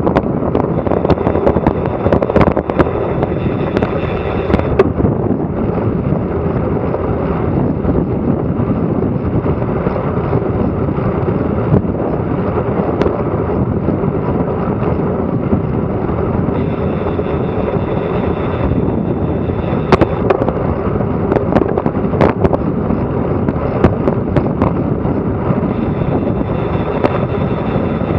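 Wind buffeting an action camera's microphone during a fast bicycle descent, a loud steady rushing, with scattered sharp clicks, several within the first few seconds and a few more later on.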